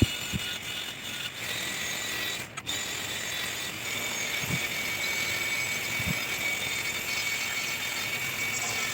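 Angle grinder stripping old paint from a bicycle frame: a steady, dense grinding hiss with a faint whine, and a few soft knocks.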